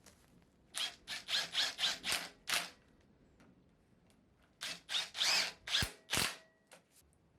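A hand tool scraped or scrubbed back and forth against a surface in quick strokes, about four a second, in two short bursts a couple of seconds apart.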